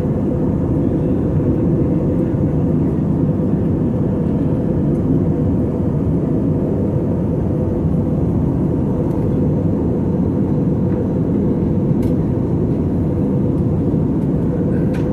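Airbus A320 cabin noise in flight: a steady low drone of engines and rushing air, even in level throughout, with a faint click or two near the end.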